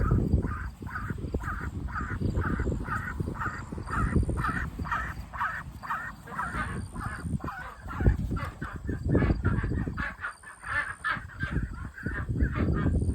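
Domestic ducks quacking in a steady, rhythmic series, about two calls a second at first and quickening in the second half, over a low rumble.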